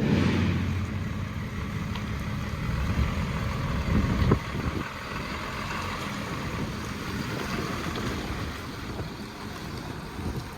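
Wind buffeting the microphone over a steady low rumble, with a couple of stronger gusts about four seconds in.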